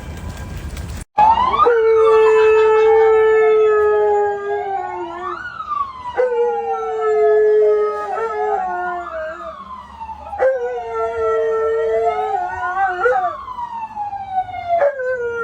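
A siren wailing up and down about every four seconds, with a dog howling along in long held notes; it starts abruptly about a second in.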